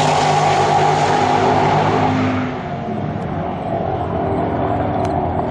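Engines of a pickup truck and a coupe held at full throttle in a roll race down a drag strip: a loud, steady engine note that fades and dulls about two seconds in as the two vehicles pull away down the track.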